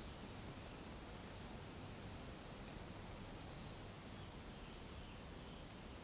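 Forest ambience: a steady low rushing background with a small bird's high, thin call, a short falling note given three times about two and a half seconds apart, and faint twittering between the calls.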